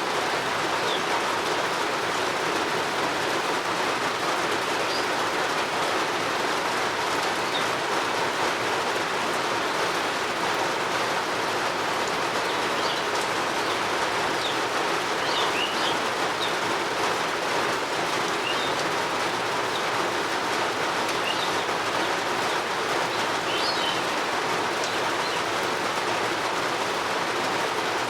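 Steady rain falling, with a few birds chirping briefly now and then over it.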